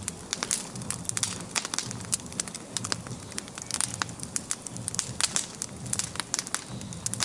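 Wood bonfire burning and crackling, with frequent irregular sharp pops over a steady low rush of flame.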